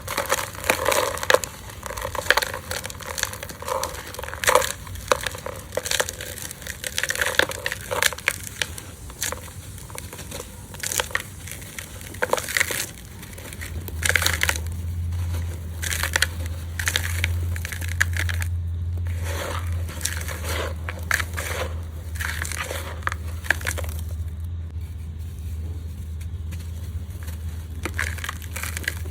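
Hands crumbling and crushing lumps of gritty red dirt: a dense, irregular run of crunches and crackles. A low steady hum comes in about halfway through.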